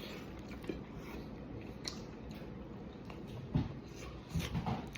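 A person biting and chewing cooked meat close to the microphone, with small wet mouth clicks and a few louder chews near the end.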